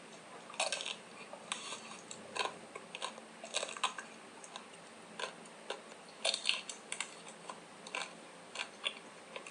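Close-miked biting and chewing of a chocolate-coated Magnum ice cream bar, the hard chocolate shell cracking in irregular sharp crunches.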